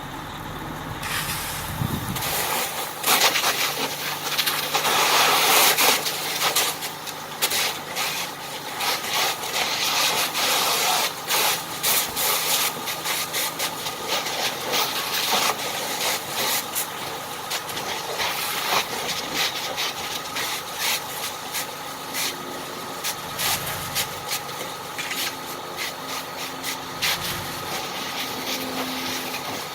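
Fire hose stream spraying onto a burning car, a hissing, spattering rush full of crackles and pops, loudest in the first several seconds. A fire engine runs steadily underneath.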